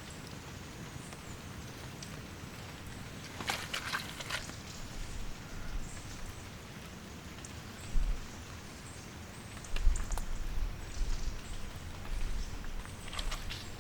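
Steady rain falling. Clusters of sharp clicks come about four seconds in and again near the end, and low thumps start at about eight seconds.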